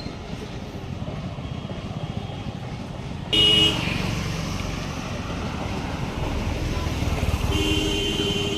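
Steady low engine and road rumble with a vehicle horn: a short, loud two-note honk about three seconds in, and a longer honk that starts near the end.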